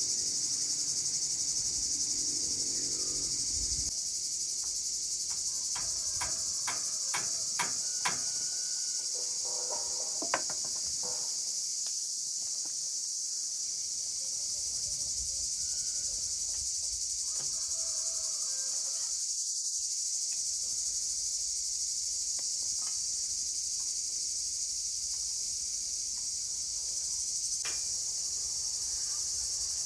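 Steady high-pitched insect chorus, with a quick run of sharp clicks or knocks about six to eight seconds in and one more a couple of seconds later.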